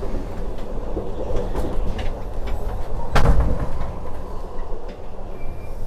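Running noise of the moving Bernina Express train, a steady low rumble, heard in the gangway between carriages, with one sharp knock about three seconds in.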